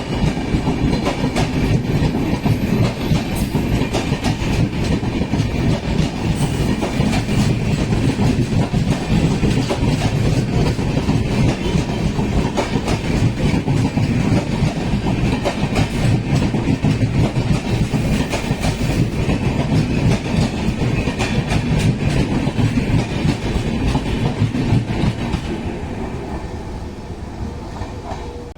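Express train running through a station at speed without stopping, its wheels clattering over the rail joints. The steady noise begins to die away a few seconds before the end as the train moves off.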